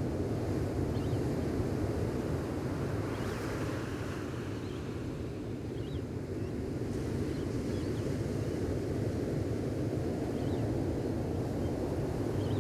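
Gentle ocean waves washing onto a beach, a steady low surf that swells a little about three seconds in, with a few faint short bird chirps now and then.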